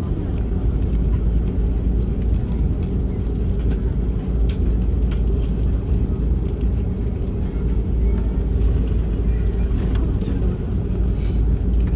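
Steady low rumble inside an Airbus A330-300 airliner's cabin as it taxis before takeoff, from the idling engines and the rolling aircraft, with a few faint clicks.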